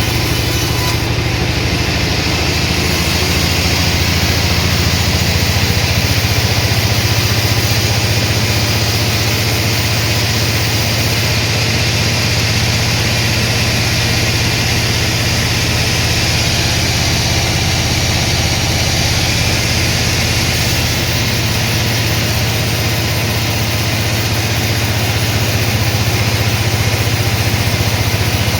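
Sawmill machinery running with a steady, unchanging hum.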